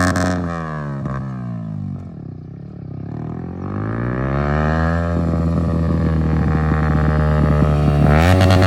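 Yamaha R15M's single-cylinder engine through an aftermarket Akrapovic-copy exhaust: the note drops as the revs fall, climbs again, holds steady, then jumps up sharply near the end as the throttle is opened.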